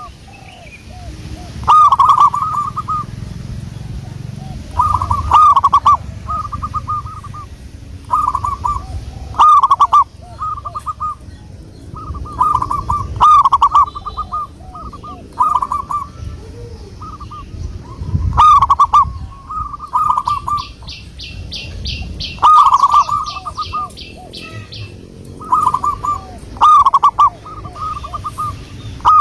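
Zebra dove (perkutut) cooing: a loud, bubbling phrase of several notes, repeated every two to three seconds. About twenty seconds in, a rapid series of high ticking notes joins briefly.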